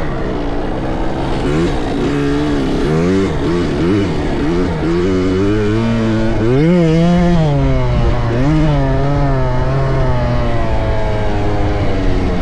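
Several dirt bike engines on a motocross track, revving up and down as the riders work the throttle, their rising and falling pitches overlapping, with one engine holding a steadier note through the second half.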